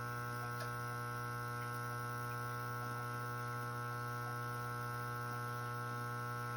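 Beckett oil burner motor humming steadily while stalled, energized but not turning the blower wheel and fuel pump. A steady electrical hum with no start-up or firing, the owner suspecting a bad capacitor.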